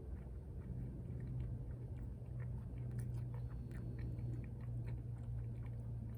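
A person chewing a mouthful of bacon-lettuce muffin, with many small crunchy clicks, over a steady low hum.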